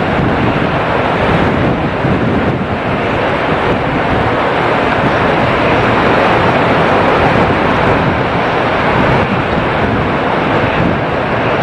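Strong wind and heavy rain buffeting the microphone: a loud, steady rushing roar with no distinct tones.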